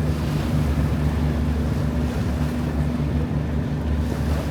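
River cruise boat's engine running steadily with a low, even drone, along with wind noise on the microphone and the rush of water.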